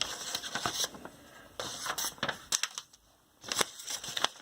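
Papers and packaging being handled and rummaged through: rustling and crinkling with sharp clicks and taps, in three short bouts with a brief pause a little after the middle.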